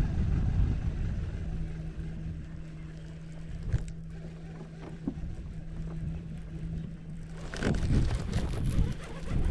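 Steady drone of a boat motor over a low rumble of wind and water, with a sharp click about four seconds in and a louder rush of noise near the end.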